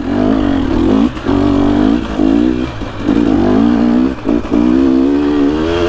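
Dirt bike engine under hard throttle on a trail ride, rising in pitch in pulls of about a second each, with short breaks where the throttle is chopped or a gear is changed.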